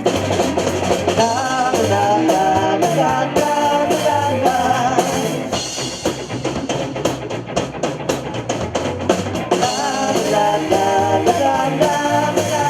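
Rock band playing a song with singing over guitar and drums; the singing drops out for a few seconds in the middle while the drums and instruments carry on, then comes back.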